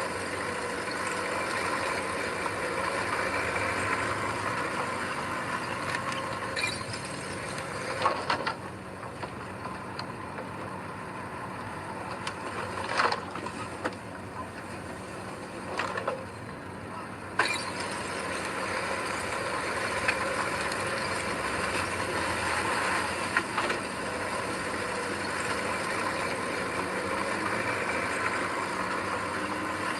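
Heavy diesel earthmoving machinery running. It goes quieter and duller for several seconds in the middle, with a few sharp knocks, before picking up again.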